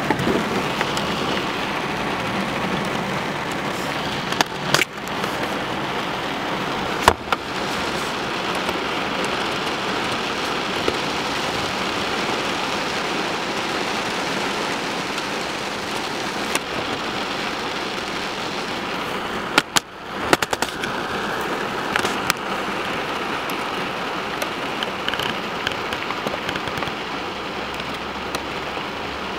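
Rain falling on a car's windshield, heard from inside the car: a steady hiss of drops, with a few sharp clicks and knocks, the loudest about seven seconds in and a cluster about twenty seconds in.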